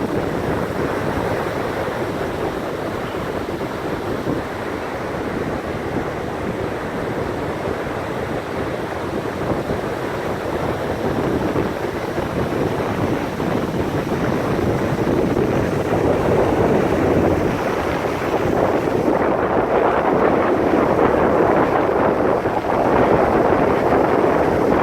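Heavy storm surf breaking and washing up the beach, a continuous rushing roar, with wind buffeting the microphone. The surge grows louder in the last third.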